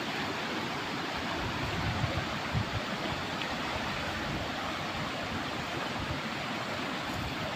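Fast-flowing river water rushing over rocks, a steady, even noise, with a couple of brief low bumps about two seconds in.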